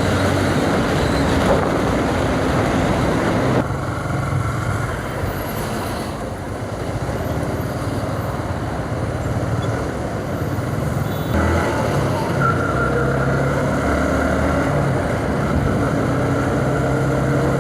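Motorcycle engine running at road speed under a rush of wind noise, heard from the riding bike. The engine note changes abruptly twice, a few seconds in and again past the middle.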